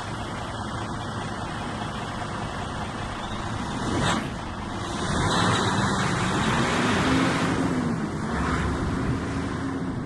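A motor vehicle driving, with road noise and engine sound; a sharp knock about four seconds in, then the engine's pitch rises and falls several times as it speeds up and eases off.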